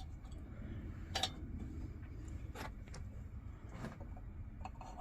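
A few faint, scattered metal clicks and taps as a Coleman lantern's generator is handled and threaded onto the lantern, the clearest about a second in, over a low steady room hum.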